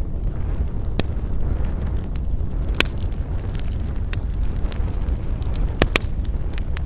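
Campfire burning: a steady low rumble of flames with sharp wood crackles and pops, the loudest about three seconds in and a close pair near six seconds.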